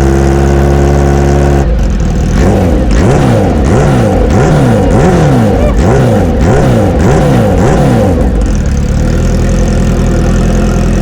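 Kawasaki Ninja H2R's supercharged inline-four, loud through its exhaust: a steady engine note, then about eight quick throttle blips that send the revs up and down, settling back to a steady note near the end.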